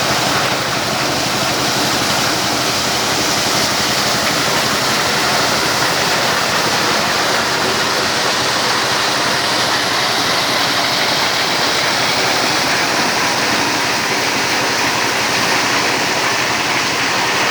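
Diesel-driven corn sheller running steadily: a loud, even rushing noise of the threshing drum and corn passing through, with the crank-started diesel engine running underneath.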